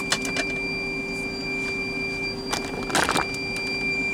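Power inverter's alarm buzzer sounding a steady high tone under a lower hum; it goes off when the truck's engine has been off for a while. Plastic bags rustle and clatter as food is put into the fridge, loudest about three seconds in.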